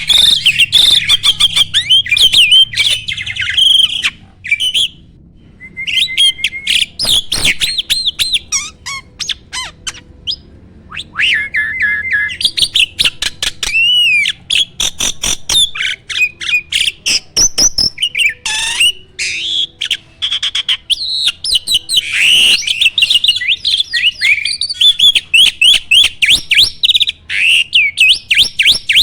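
A starling (jalak) singing continuously in a loud, fast jumble of chattering notes, whistled glides and clicks, with a brief pause about four seconds in.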